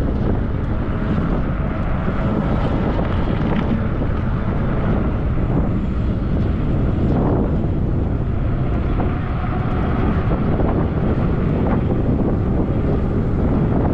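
Steady wind rushing over the microphone while riding along on a 20-inch fat-tire e-bike, an even low-heavy rush with no break.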